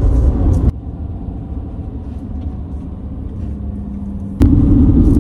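Motorhome on the move: steady low engine and road rumble. It drops abruptly to a quieter hum under a second in, then jumps back to the loud rumble with a sharp click near the end.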